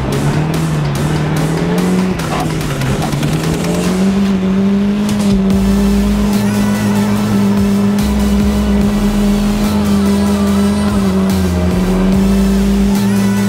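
Car engine heard from inside a car cabin, its pitch climbing over the first few seconds and then held steady at high revs through a drift on ice, over background music with a steady beat.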